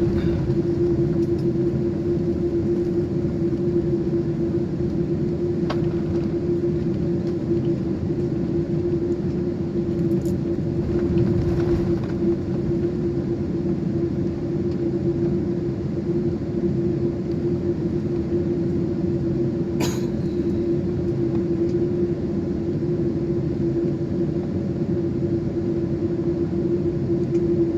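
Steady drone of a Boeing 747's four jet engines and airflow, heard from inside the cabin, with a constant deep hum over a low rumble. A few faint clicks, one of them about twenty seconds in.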